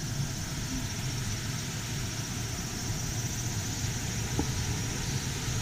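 Mountain stream rushing over rocks in a steady, even wash of water noise with a low rumble.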